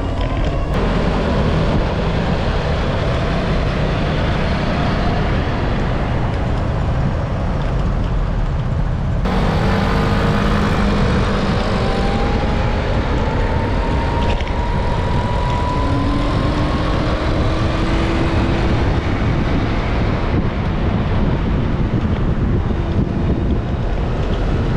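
Wind buffeting the microphone and road traffic noise while riding, with an engine rising steadily in pitch as it speeds up from about 10 to 19 seconds in.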